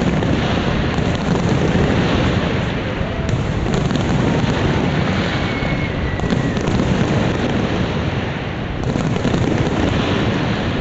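Fireworks display bursting without a break: a dense, continuous rumble and crackle, with a few sharper bangs standing out.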